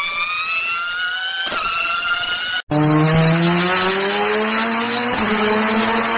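Two high-revving car engines accelerating hard, one after the other, cut together. The first is very high-pitched, rising and dropping once at an upshift about a second and a half in. After a brief cut it gives way to a lower-pitched, duller-sounding engine climbing in pitch, with another upshift near the end.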